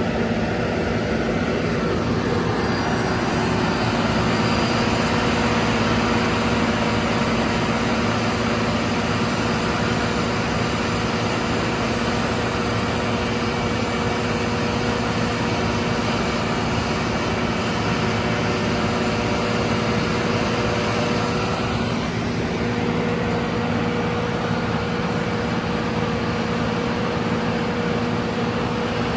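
CAT asphalt paver's diesel engine running steadily under load, with a constant mechanical hum and a steady whine that shifts slightly higher about three-quarters of the way through.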